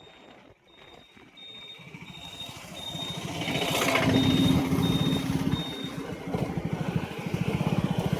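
A high electronic beeper sounding in a steady on-off pattern, about two beeps a second, that stops about six seconds in. Meanwhile a vehicle's engine approaches and grows louder, running with an even low pulse.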